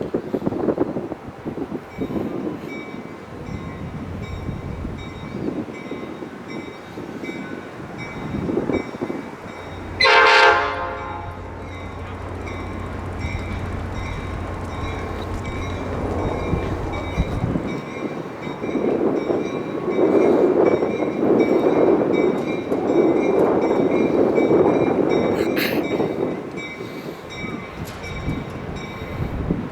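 Caltrain diesel commuter train: one horn blast about ten seconds in, with the locomotive's engine droning for several seconds after it, then the train rolling past with a louder rumble of wheels and cars in the second half.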